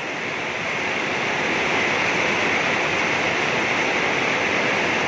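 Steady rain pouring down, an even hiss that swells slightly in the first second and then holds.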